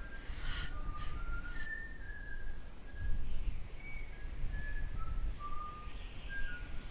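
A bird whistling a series of short, clear notes that jump between pitches at irregular intervals, over a low rumble.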